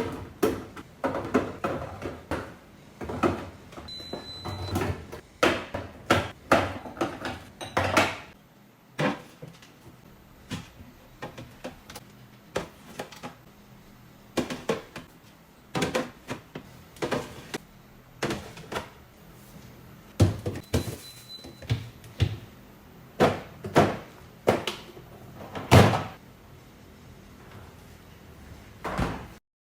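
Containers and items being handled in a refrigerator, with the fridge door opening and closing: a run of irregular knocks and thunks, busiest in the first several seconds. A short high beep sounds twice.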